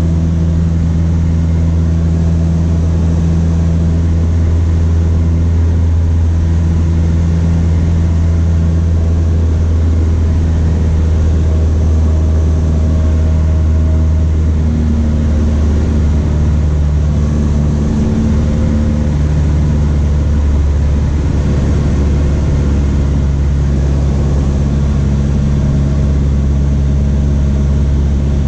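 Cessna 152's four-cylinder Lycoming O-235 engine and propeller droning steadily in flight, the engine note shifting slightly about halfway through.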